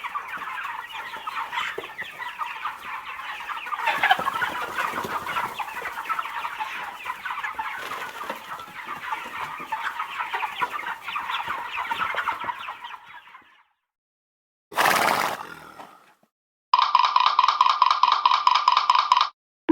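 A flock of hens clucking together, dense and continuous, stopping about thirteen and a half seconds in. After a pause comes a short loud noise, then near the end a rapidly pulsing tone.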